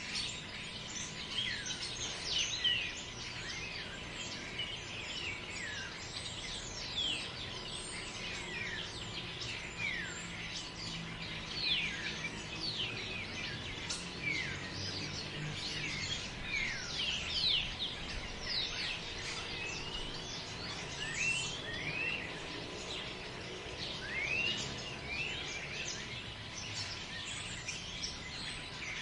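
Forest ambience with many birds calling at once: a dense, continuous chorus of short chirps and quick sweeping calls overlapping one another, over a faint, steady low background rush.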